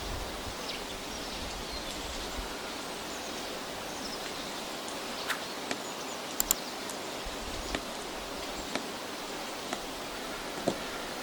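Forest ambience: a steady soft hiss with a few sharp small clicks scattered through it, the loudest a quick double click about six and a half seconds in.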